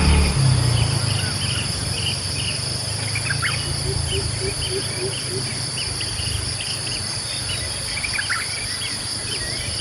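Steady outdoor insect chorus with high continuous drone bands, with scattered short bird chirps over it. A run of short, low repeated notes comes about four to five seconds in, and a low rumble dies away in the first second.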